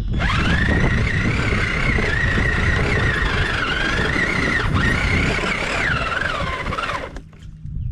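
Small nitro RC car engine running at high revs, a high wavering whine that falls in pitch and cuts off about seven seconds in.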